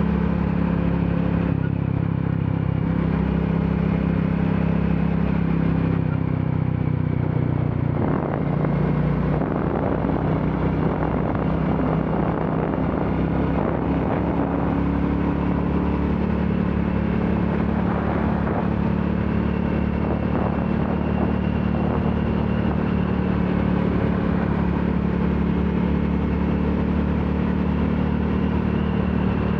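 Royal Enfield Classic 350's single-cylinder engine running while the motorcycle is ridden. The engine note shifts a few times in the first eight seconds, then holds steady while cruising.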